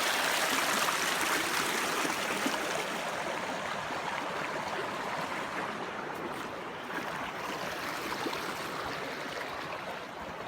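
Small creek running full, its water flowing and burbling over the bed in a steady noise that grows a little quieter after the first few seconds.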